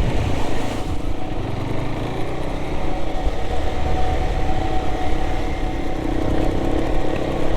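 Motorcycle engine running at a steady pace while riding a gravel track, with low wind rumble.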